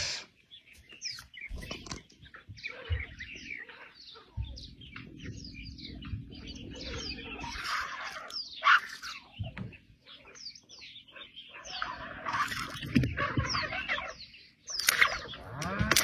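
Birds chirping all around: many short, quick, mostly falling calls, busier in the second half, with a few low knocks mixed in.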